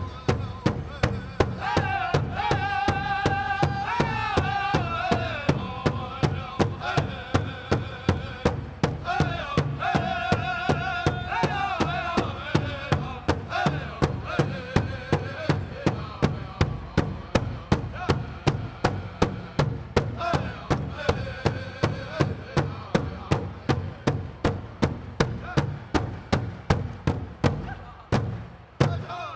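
Powwow drum and singers: a large drum struck in a steady beat, about two and a half beats a second, under high-pitched group singing. The drumming stops shortly before the end.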